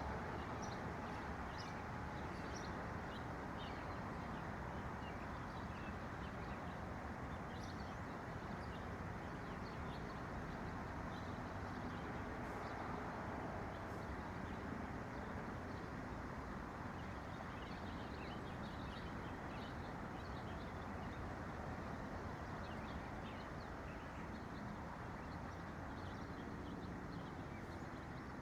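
Songbirds chirping: many short, high calls in scattered clusters, over a steady rushing background noise.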